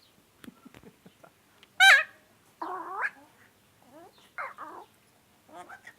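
Parrot calling: a loud, rapidly warbling shriek about two seconds in, followed by a harsher call and another short call near the end.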